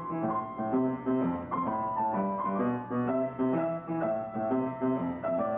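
Piano music: a melody of short notes over lower accompanying notes, several notes a second.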